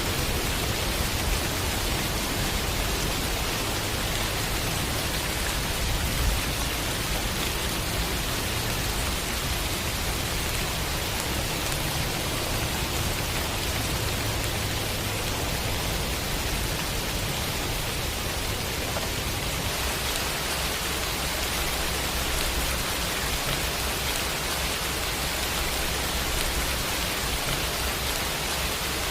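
Steady rainfall, an even hiss of rain across the whole range, with a low steady rumble underneath. The sound changes slightly about twenty seconds in.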